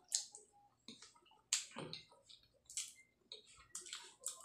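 Close-miked mouth sounds of a person eating balut: wet lip smacks and chewing clicks, several sharp smacks irregularly spaced about a second apart.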